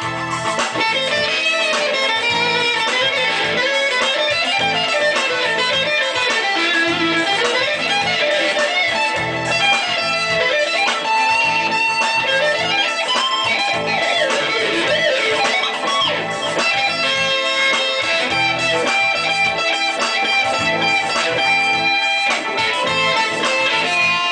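Guitar music: an electric guitar playing quick lead lines with notes that slide and bend up and down, over low notes underneath.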